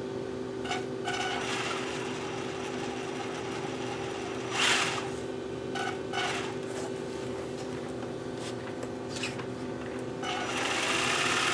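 Rustling and scraping from parts and tools being handled in short bouts, the loudest about halfway through and a longer one near the end, over a steady background hum.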